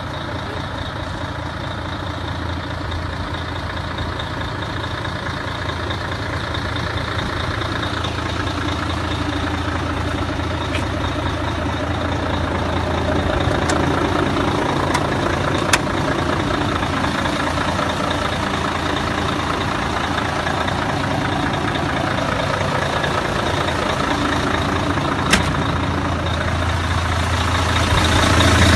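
Mercedes-Benz 1846 truck's V6 diesel engine idling steadily, with two sharp clicks partway through. It grows louder toward the end.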